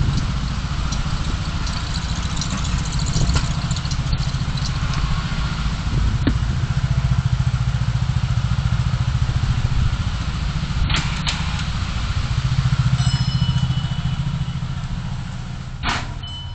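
Car driving in city traffic: a steady low engine and road rumble, with a few brief clicks in the second half.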